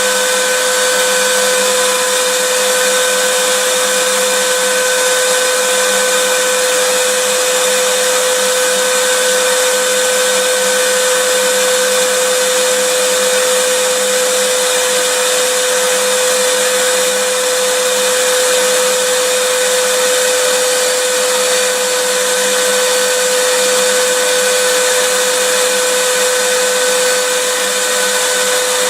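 Vacuum cleaner running steadily: an even hiss with a constant whine held at one pitch, unchanging throughout.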